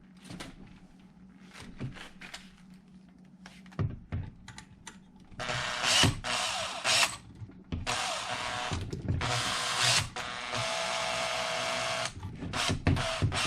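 Small clicks of parts being handled, then a cordless power screwdriver whirring in three long bursts, driving a screw into the RC truck's sway bar mount.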